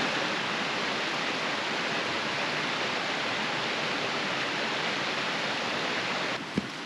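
A steady, even rushing noise with no gusts or pauses that cuts off abruptly near the end, followed by a sharp click.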